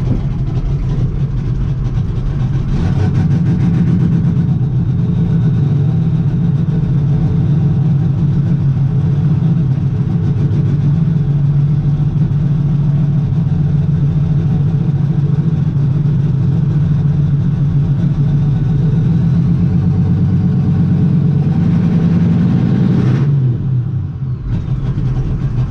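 6.5-litre V8 diesel engine of a race truck running steadily at a raised idle after a cold start. Its speed comes up slightly a few seconds in, and near the end the pitch falls as it drops back to a lower idle.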